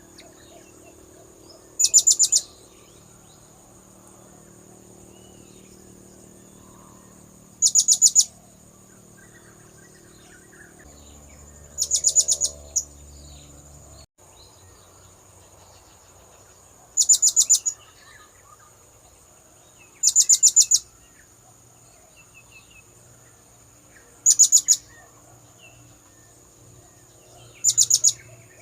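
Blue-crowned hanging parrot (serindit) calls played as a bird lure: seven short bursts of rapid, very high-pitched chirps, each about half a second long, repeated every few seconds.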